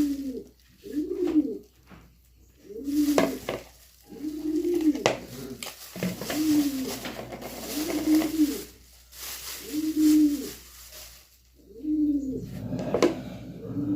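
Pigeon cooing close by: a short, low, arched coo repeated every one to two seconds, with bursts of hiss in between.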